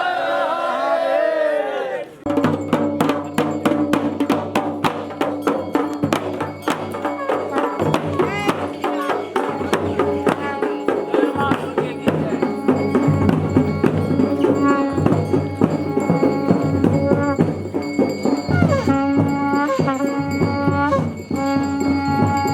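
Garhwali dhol and damau drums played fast and dense in traditional processional rhythm, with a steady held wind-instrument tone over them. They start about two seconds in, after a moment of voices.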